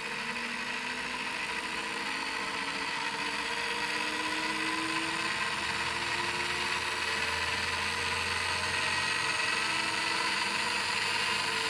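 Brushed commutator motor of a drill press running on an electronic speed controller, its speed slowly climbing: a steady whine that rises gradually in pitch and grows a little louder, as the maximum-speed trimmer is set.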